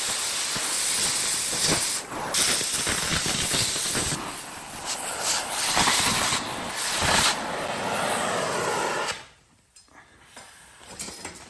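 Loud, steady hissing rush of noise with some fluttering that cuts off abruptly about nine seconds in.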